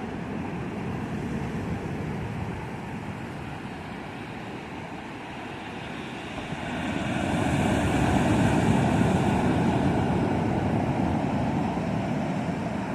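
Surf: waves rushing in, with a bigger wave swelling about six and a half seconds in and slowly washing away.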